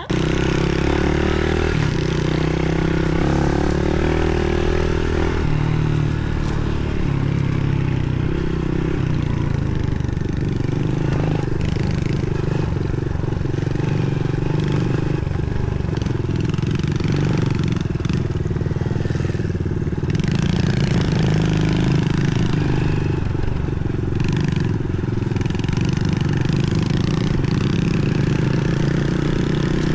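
Pit bike engine running while riding, its pitch rising and falling with the throttle and gear changes.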